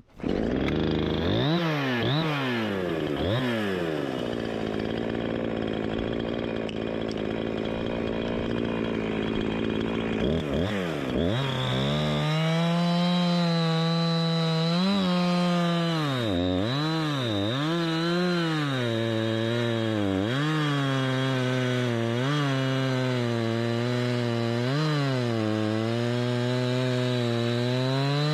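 Two-stroke chainsaw revved in quick blips, then running steadily. About twelve seconds in it settles into cutting wood, its engine pitch dipping and recovering over and over under the load.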